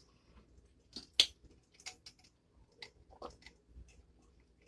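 Chewing and mouth sounds: a few scattered soft clicks and smacks, the sharpest a little over a second in.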